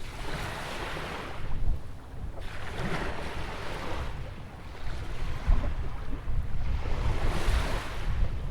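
Ocean waves breaking and washing in, three swells of surf in a row, over a low rumble of wind on the microphone.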